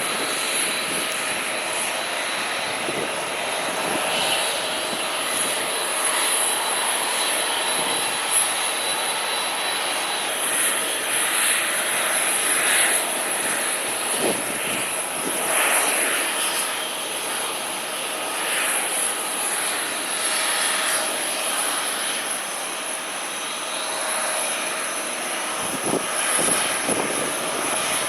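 Aircraft engines running steadily at an airport, a continuous roar, with gusting wind buffeting the microphone.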